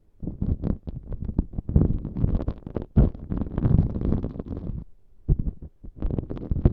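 ASMR props rubbed and scratched against a close microphone, giving crackly scratching over a low rumble. It comes in bursts, with a short break about five seconds in.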